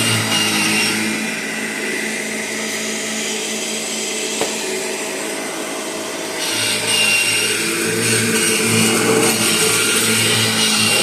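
1998 Kirby Generation 5 upright vacuum cleaner's motor running steadily on a freshly replaced belt, running smoothly. It drops somewhat in level for a few seconds and comes back up about six seconds in, with one short click about four seconds in.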